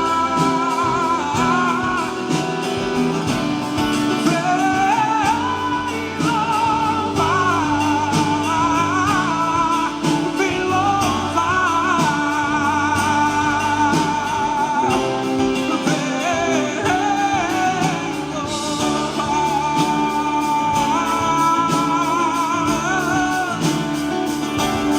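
Live gospel praise music: a band with guitar playing a steady beat under a singing melody line that slides up and down.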